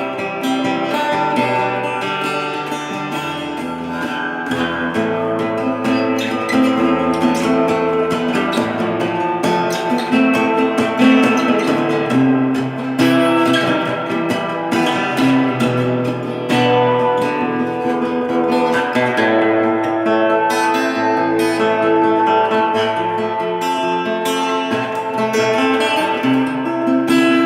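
Acoustic guitar music: a violão playing a continuous piece of plucked and strummed notes.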